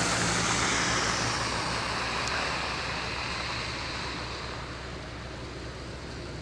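Traffic on a wet, snowy city street: a car's tyre hiss fading steadily as it moves away, over a steady low hum.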